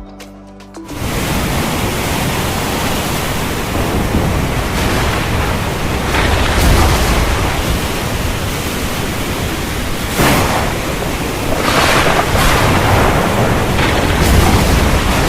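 Thunderstorm: a steady loud wash of heavy rain with rolling thunder rumbles, starting about a second in, and several sharper thunder claps, the clearest about ten seconds in.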